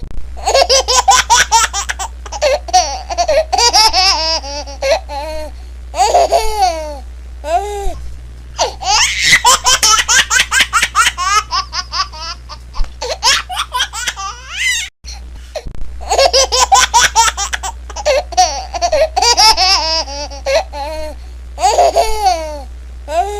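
Laughing ringtone: high-pitched laughter in quick pulses, its pitch swooping up and down, breaking off for a moment about fifteen seconds in and then carrying on.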